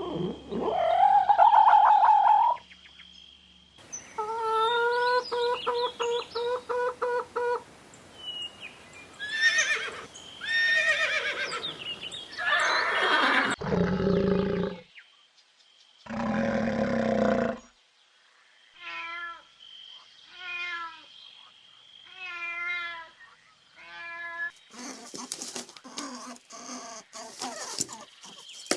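A run of different animal calls, one recording after another: a wavering cry near the start, a held call with a fast pulsing wobble, several rising and falling cries, then a string of short repeated calls near the end.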